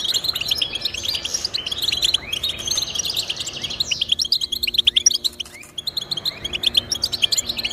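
Goldfinch singing a fast, continuous twittering song of short chirps and trills.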